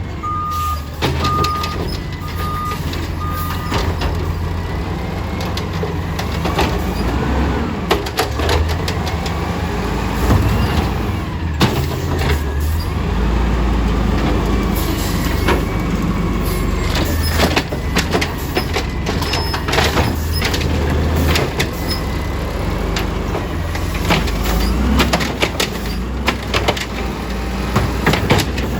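Small automated side-loader garbage truck working: its engine runs steadily and its reversing beeper sounds for the first few seconds. After that come repeated clanks and knocks, with the engine pitch rising and falling at times in the middle as it revs.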